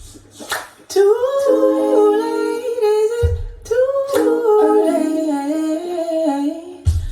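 Music: a woman's wordless, layered vocal harmonies of held notes gliding between pitches, with a deep bass thump about every three and a half seconds.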